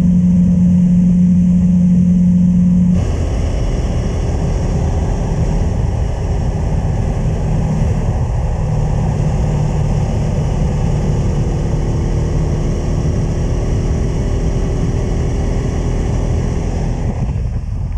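Honda Transalp 600's V-twin engine running at a steady cruise, with wind rush over the microphone. About three seconds in, the sound changes abruptly: the strong steady engine note gives way to louder wind noise with the engine fainter beneath it.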